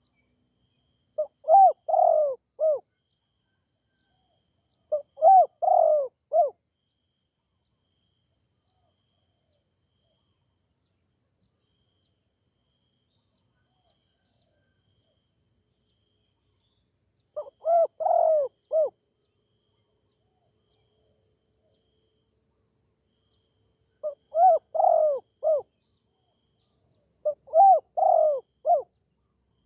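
Spotted dove cooing: five separate phrases of a few rounded notes each, the first two close together, then a long pause before three more.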